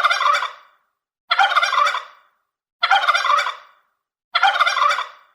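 Domestic turkey gobbling, the same rattling call repeated four times about every second and a half.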